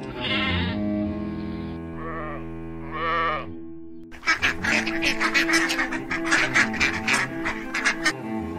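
Sheep bleating three times, each call wavering, over background music; from about four seconds in, ducks quacking in a rapid run of short, sharp calls, the loudest part.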